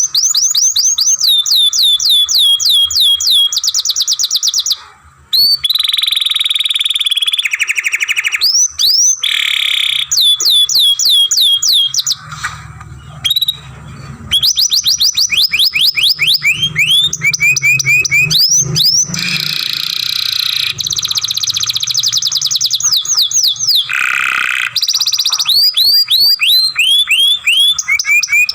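Canary singing a long song: phrase after phrase of rapidly repeated down-sweeping whistled notes and fast rolling trills, with a brief pause about five seconds in.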